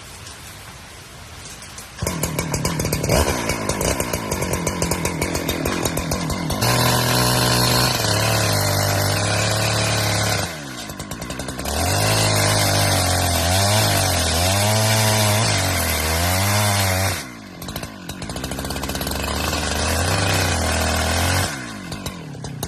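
Chainsaw running, throttled up suddenly about two seconds in, its pitch sagging and recovering again and again as it cuts through wood for firewood. The engine drops off briefly twice, near the middle and again later on.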